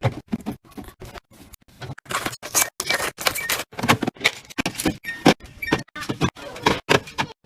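Irregular run of sharp clicks, taps and clatters, several a second, as small items and containers are handled and set down while restocking.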